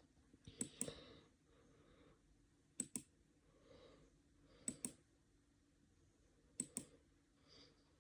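Computer mouse clicking faintly: four quick pairs of clicks, about two seconds apart.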